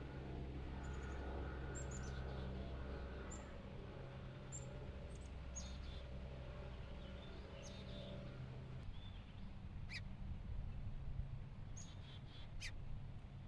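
Birds chirping: short, high chirps scattered through, over a steady low hum that drops away about nine seconds in.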